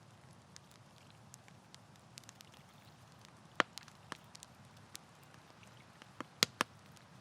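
Wood campfire crackling: a steady low rush under scattered small clicks and sharp pops. The loudest pops come about three and a half seconds in and as a quick cluster of three near the end.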